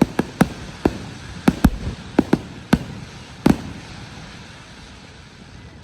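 Fireworks going off: about ten sharp bangs at irregular spacing over the first three and a half seconds, then a fading hiss with no more bangs.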